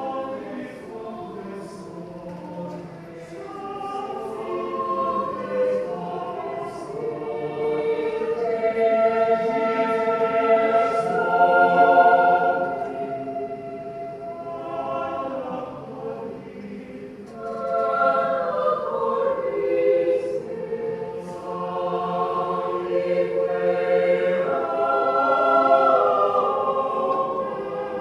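Choir singing held chords, swelling to a loud peak about halfway through, dropping back, then building again near the end.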